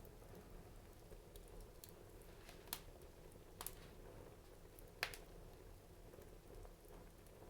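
Wood fire crackling in a fireplace: a few sharp pops, the loudest about five seconds in, over a faint low hiss.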